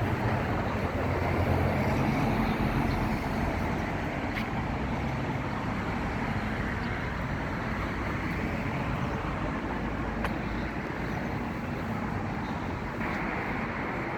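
Steady engine-like running noise with a low hum, a little louder in the first few seconds.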